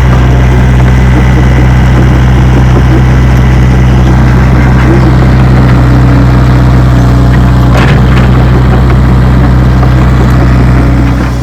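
Komatsu excavator's diesel engine running steadily close by, a deep even engine note. It drops away abruptly near the end.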